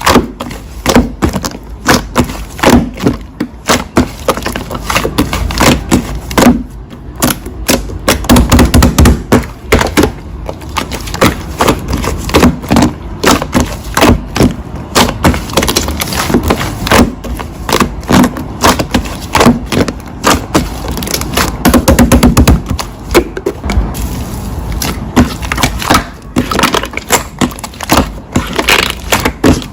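Slime being squeezed, pressed and folded by hand: a dense, irregular run of crackling pops and clicks, with softer squelches between them.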